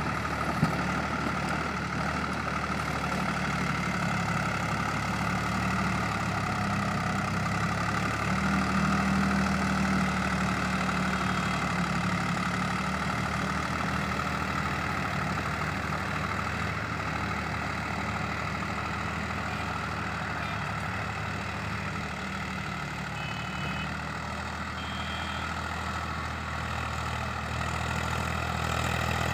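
Swaraj 744 FE 4WD tractor's diesel engine running steadily, with a brief click about half a second in.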